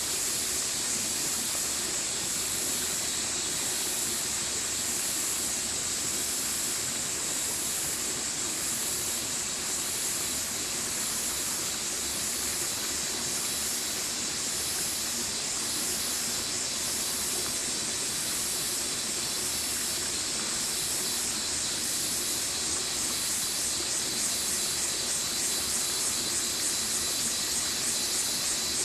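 Stream water running steadily, under a continuous high-pitched hiss that turns into a fast pulsing near the end.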